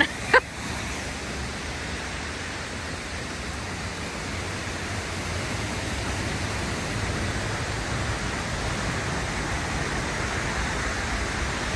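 Looking Glass Falls pouring into its pool, heard up close as a steady, even rush of water. The falls are running high after a night of heavy rain.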